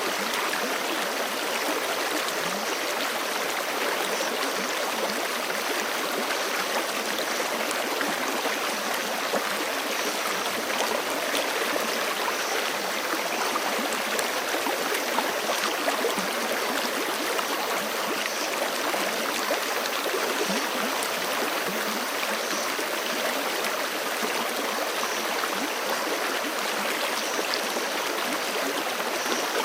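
Forest creek flowing steadily over rocks: a dense, even rush of water with fine gurgles and splashes throughout.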